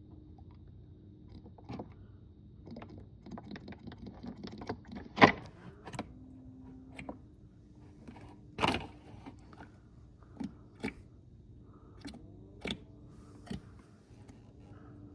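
Scattered clicks and knocks of oil bottles and caps being handled while fresh oil is added to the engine, with a sharp knock about five seconds in and another, longer one near nine seconds.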